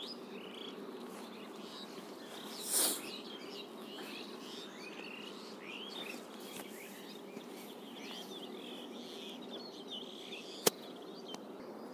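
Many short bird chirps, faint and scattered, over a steady low hum. A brief breathy rustle comes about three seconds in, and a single sharp click near the end.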